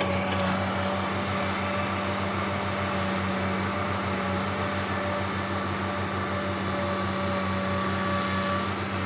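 Diesel engine running steadily at a constant speed, a low pulsing drone with a steady whine above it.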